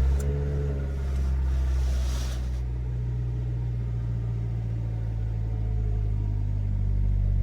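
Kia Sportage's G4KD 2.0-litre four-cylinder petrol engine running at fast idle right after a cold start in frost, the revs settling from the start-up flare into a steady idle. The engine was rebuilt about 15,000 km ago, and the owner finds the sound normal.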